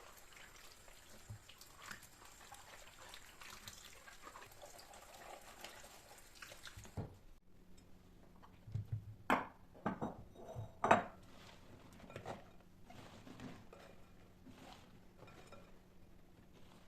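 Kitchen handling sounds: faint light clicks and rustles, then, past the middle, a quick run of sharp clinks and knocks of kitchen items, the loudest about eleven seconds in.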